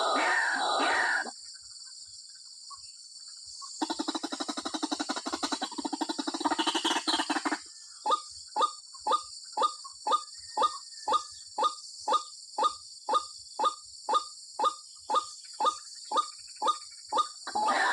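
White-breasted waterhen calls, the female's call to the male. Dense calling stops about a second in, then after a pause comes a fast rattling run of notes for about four seconds, then a steady series of short repeated notes about two and a half a second, and dense calling starts again near the end. A steady high hiss runs underneath.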